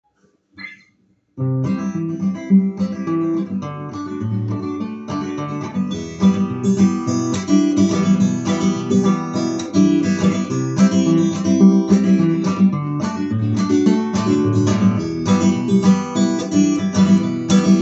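Acoustic guitar strummed in a steady rhythm: the instrumental intro of a song, starting about a second and a half in after a brief faint sound.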